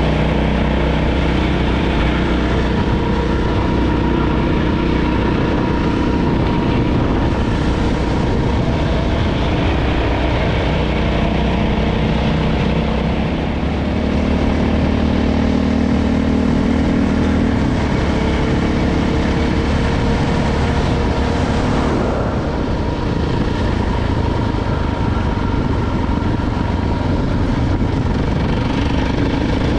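KTM LC4 640 single-cylinder four-stroke enduro motorcycle engine running under way, its note shifting up and down in pitch.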